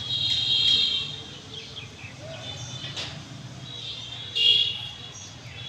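Birds calling in the trees: shrill, high calls at the start and again about four seconds in, over steady background noise.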